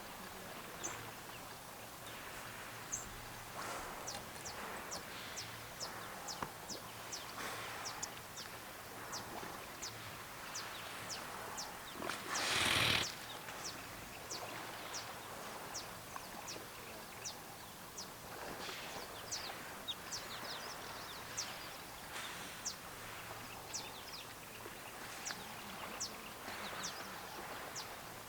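Outdoor natural ambience with short, high, downward-sweeping bird chirps repeated about two a second. Near the middle a loud rush of noise lasting about a second stands out above them.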